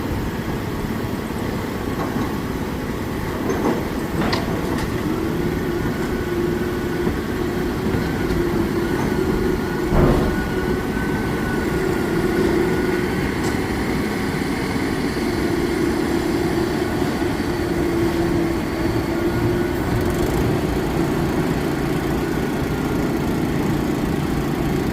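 Heavy diesel construction machinery running steadily, with a few knocks, the loudest about ten seconds in.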